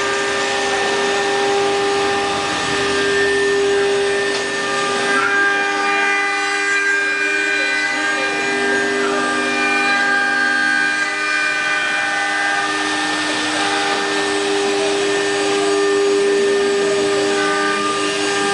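A 4-axis CNC wood router running, its spindle giving a steady high whine over a continuous hiss from cutting, the pitch shifting slightly now and then.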